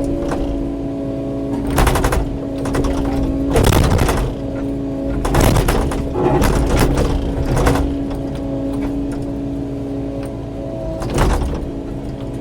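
Kubota KX080-4 excavator's diesel engine running steadily under load. Sharp knocks and crashes recur every second or so from the bucket working brush and rocks on the hillside.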